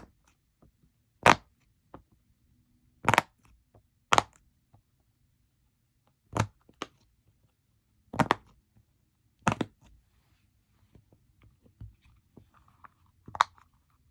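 Slime being pressed and squished by hand, giving short, sharp squelching pops about every one to two seconds, around seven in all.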